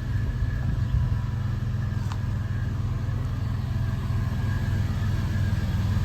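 1999 Porsche 911 Carrera's 3.4-litre flat-six idling steadily through a B&B aftermarket exhaust: a low, even, pulsing rumble.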